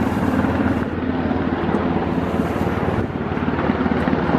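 Coast Guard helicopter flying overhead: a steady, rapid chop of rotor blades over the engine's hum.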